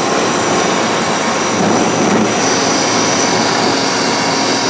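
Loud, steady rushing noise, like a strong hiss, with a faint high whine running through it.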